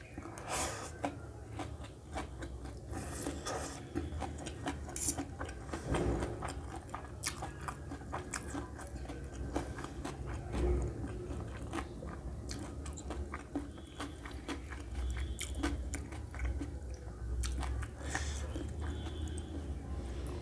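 A person chewing mouthfuls of vegetable chow mein noodles close to the microphone, with wet mouth sounds throughout and short clicks from a fork on a steel plate.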